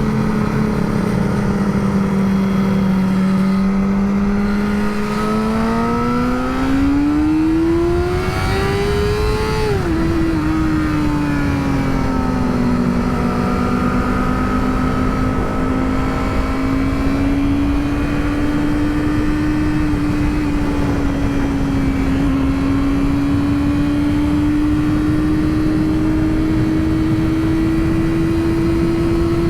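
Yamaha R6 sport bike's inline-four engine pulling at speed. The revs climb for a few seconds, drop suddenly at an upshift about ten seconds in, then hold fairly steady with a slow rise. Wind rushes over the microphone throughout.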